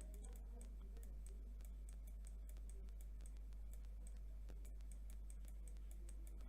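Faint, irregular small clicks, several close together at times, over a steady low hum.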